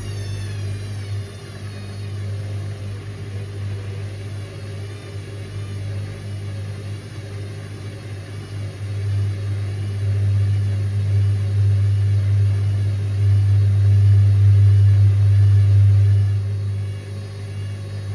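Indesit IWC6165 washing machine running its wash cycle: the motor turns the drum with a steady low hum, growing louder from about ten seconds in and easing off near the end.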